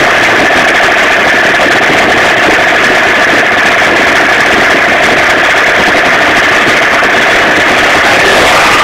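Tuned 50cc two-stroke moped engine, built up with Pro Race parts, running at a steady speed with a constant buzzing note.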